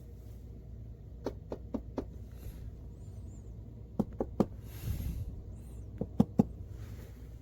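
Light knocks and clicks in small quick groups: four just over a second in, three at about four seconds, then a short rustle and three more near the end.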